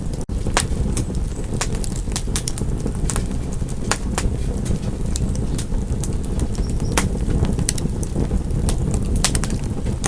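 Fireplace wood fire crackling: irregular sharp pops and snaps over a steady low rumble of burning, with a split-second gap just after the start.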